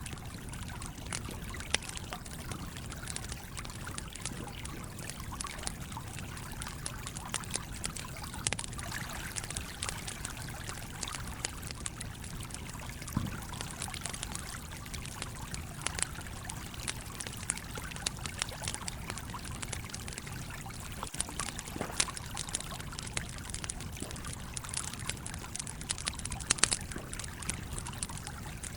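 Wood campfire crackling with irregular sharp pops, a few louder ones near the end, over the steady rushing flow of a stream.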